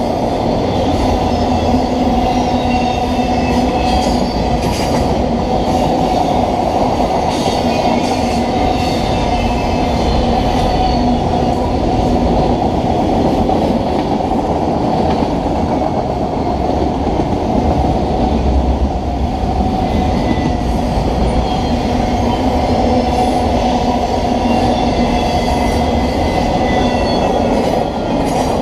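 Freight train of autorack cars rolling past at speed: a continuous rumble and rattle of wheels on the rails, with faint high-pitched wheel squeals now and then.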